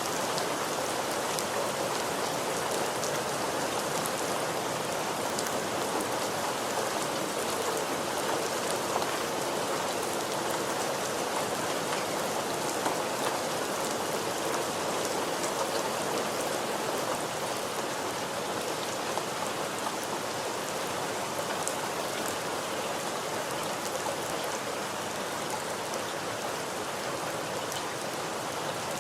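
Steady heavy rain falling, an even wash with scattered drop ticks hitting a surface.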